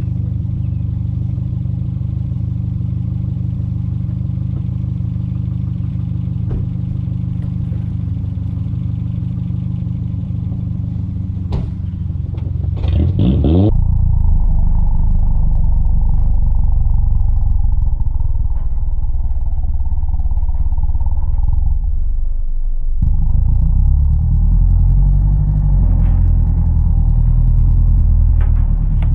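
Pickup truck engine idling steadily, then revved hard for a burnout: a brief rising whine about 13 seconds in, then a loud, rough, sustained running under full throttle with a short dip near 23 seconds.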